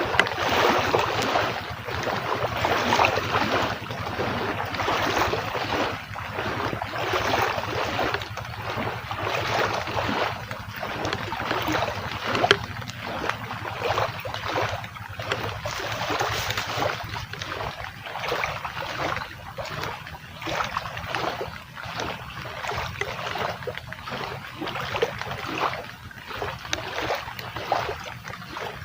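Heavy rain falling, a dense crackle of drops that swells and eases, with wind buffeting the microphone and a faint low steady hum underneath.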